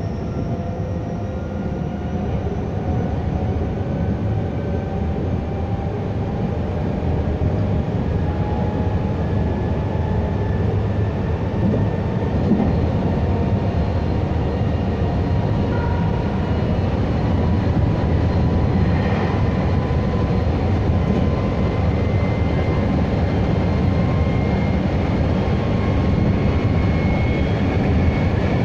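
Meitetsu 3150 series electric train running: a steady rumble of wheels on the rails, with the whine of the traction motors rising slowly in pitch as the train gathers speed.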